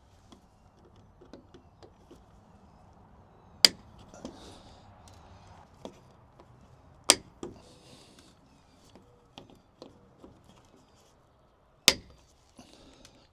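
Flush-ground wire cutters snipping the protruding ends off metal hot staples sunk into a plastic trim piece: three sharp snaps a few seconds apart, with faint small clicks of handling between them.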